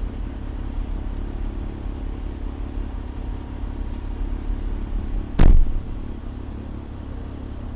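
Fire engine's engine running with a steady low rumble. A single loud, sharp thump cuts in about five and a half seconds in.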